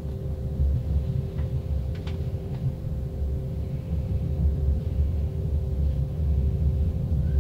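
Train rumble: a steady low rumble carrying a constant two-note hum, with a few faint clicks.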